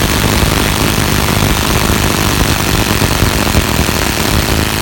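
Two cordless impact drivers, a Fein ASCD18-200W4 18 V and a Makita BTD136 14.4 V, hammering together in reverse while backing out 5-inch screws: a loud, continuous rattle of rapid impacts.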